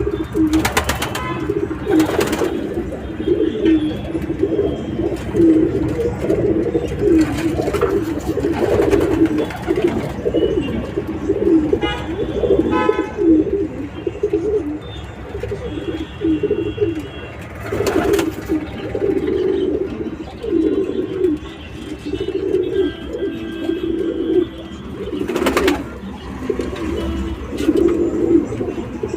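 A group of pigeons cooing continuously, many low calls overlapping, with a few sharp knocks here and there and a brief run of quick higher chirps about twelve seconds in.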